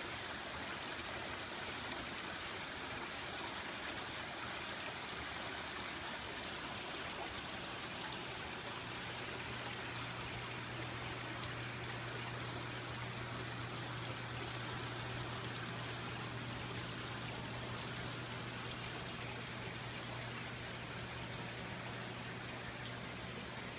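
Waterfall: a steady rush of falling water. A steady low hum comes in about eight seconds in and stays under it.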